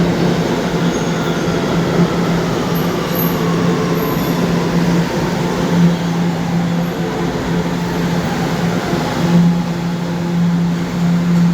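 New York City Subway train slowing into the station, its electric traction motors giving a whine that falls slowly in pitch over a steady low hum.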